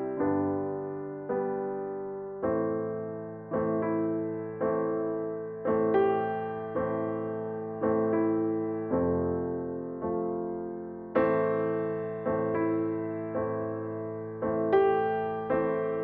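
Background solo piano music: slow chords struck about once a second, each left to ring and fade before the next.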